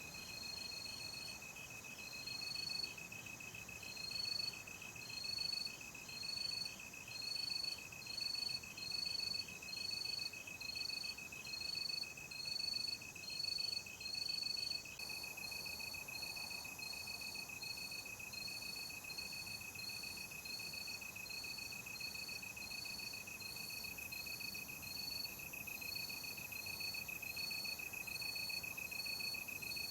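Night insects, crickets, chirping: one steady high trill runs underneath, and a second, higher chirp repeats regularly a little more than once a second over it. The chirps are loudest in the first half and come closer together later on.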